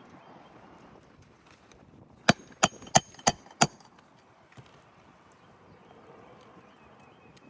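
Five quick hammer blows, about three a second, from a 16-ounce Craftsman hammer driving a roofing nail into a shingle, each strike with a short metallic ring.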